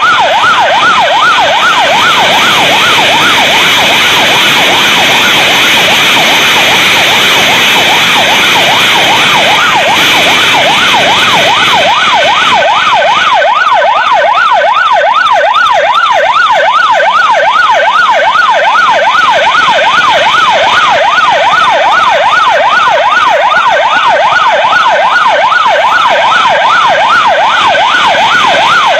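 Loud police siren in a fast yelp, its pitch sweeping up and down about three times a second, over a steady rushing noise that eases after about twelve seconds.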